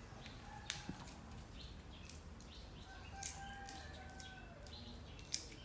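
Faint background birdsong: scattered short, high chirps, and a longer call about three seconds in.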